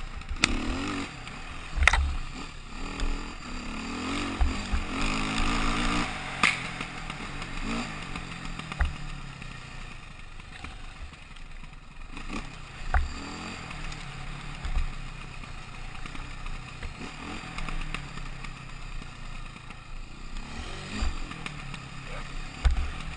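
KTM motorcycle engine running under way, its pitch rising and falling with the throttle, with wind buffeting the microphone in low thumps and a few sharp knocks.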